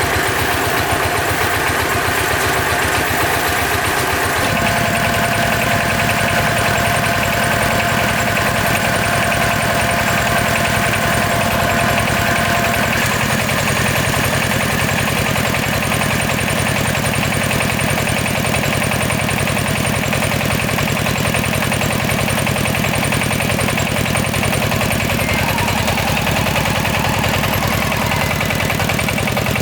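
Engine of a rice-harvesting machine running steadily, its note shifting slightly about four seconds in.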